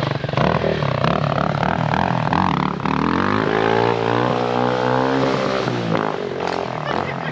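Dirt bike engine accelerating hard, its pitch climbing steadily for a few seconds, holding briefly, then falling away near the end as the throttle is rolled off.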